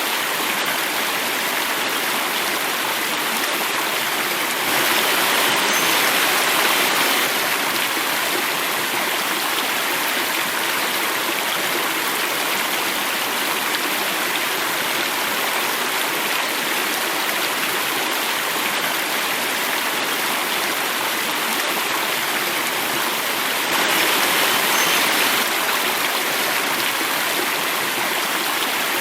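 Stream water flowing and falling in a steady rush, swelling a little louder twice, about five seconds in and again near the end.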